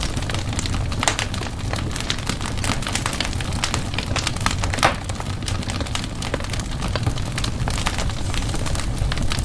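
Wood fire in a fireplace crackling, with irregular sharp pops and snaps over a steady low rumble of the flames; one louder pop about five seconds in.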